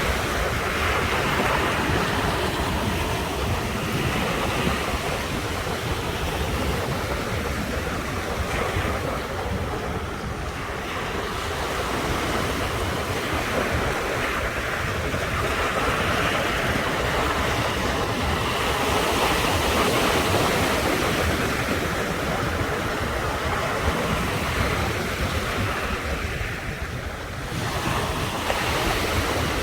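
Sea waves breaking and washing on the shore in a continuous surf, swelling and easing every several seconds, with wind buffeting the microphone as a low rumble.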